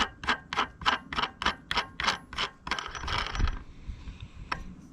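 Ratchet wrench clicking evenly, about four clicks a second, then a short hiss a little under three seconds in.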